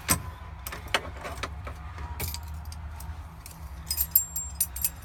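Scattered sharp clicks, with a brief bright metallic jingle about four seconds in, over a steady low rumble.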